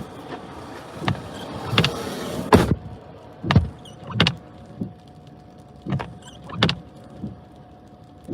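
Vehicle cabin and road noise that cuts off with a single sharp thump, a car door shutting, about two and a half seconds in. Then come footsteps crunching in snow, about one every two-thirds of a second, over a faint steady tone.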